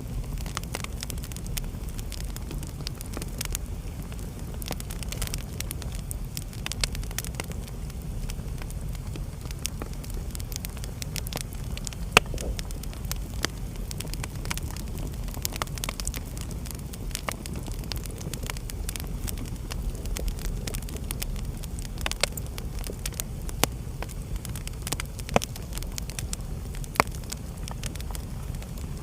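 Wood fire burning in a fireplace: a steady low rumble of flames with irregular crackles and sharp pops, the loudest pop about twelve seconds in.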